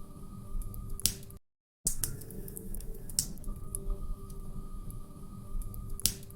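Log fire crackling in a fireplace: irregular sharp pops and snaps over a low rumble. About a second and a half in, the sound cuts out completely for half a second, then resumes.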